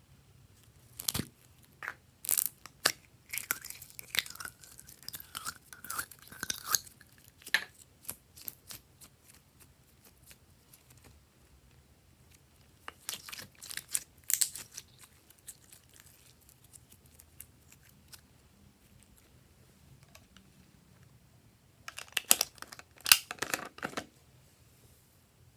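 Glossy slime being kneaded and stretched by hand, making sticky clicks, pops and crackles in three bursts with quieter pauses between.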